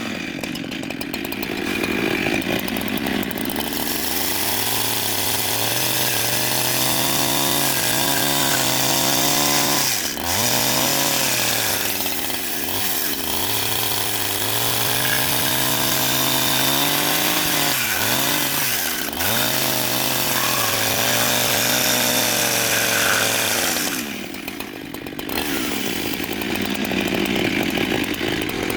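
Chainsaw-type power tool running while cutting wood. Its pitch dips sharply twice, about a third and two-thirds of the way through, and the level drops briefly near the end.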